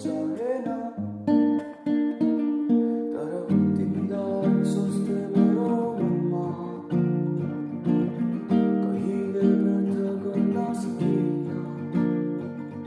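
Acoustic guitar playing a song: single plucked notes at first, then fuller strummed chords from about three and a half seconds in.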